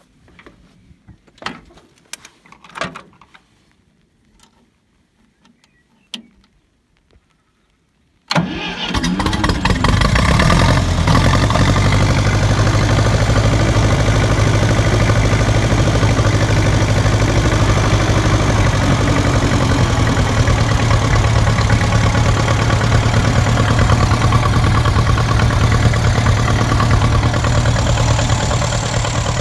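A few scattered clicks and knocks, then about eight seconds in the 1949 Ferguson TEA20 tractor's four-cylinder engine starts abruptly and settles into a steady idle.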